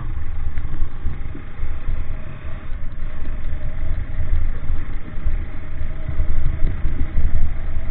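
A motor vehicle running: a steady, loud low rumble that rises and falls unevenly.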